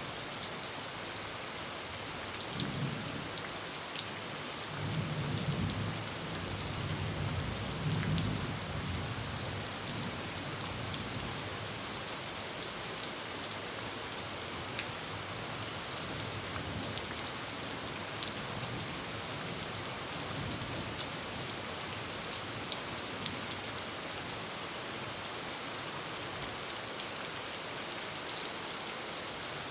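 Heavy rain falling steadily on a tin roof, with individual drops ticking sharply, and a low rumble of thunder from about three to nine seconds in, with a fainter rumble later.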